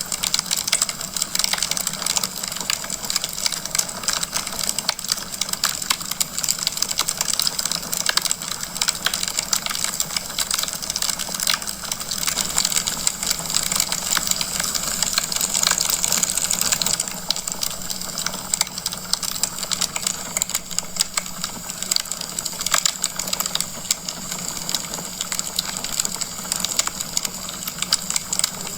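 Wood fire crackling in a fireplace: a dense, continuous run of small pops and snaps over a steady hiss, a little quieter partway through.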